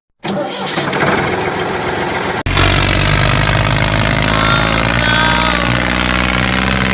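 Tractor engine running. There is a rattly, clattering stretch for about two seconds, then after an abrupt cut the engine settles into a steady idle.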